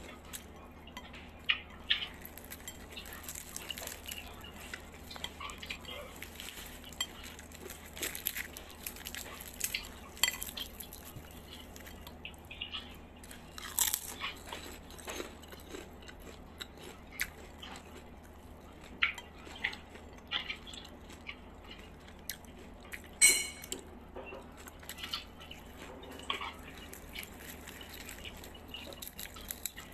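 Close-up chewing and crunching of crispy fried chicken and rice, with irregular sharp crunches of the fried coating.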